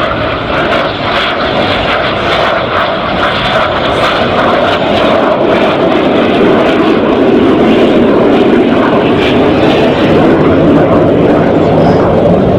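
Aircraft engine noise from a fixed-wing display aircraft, a dense steady rush that grows slowly louder as the aircraft approaches.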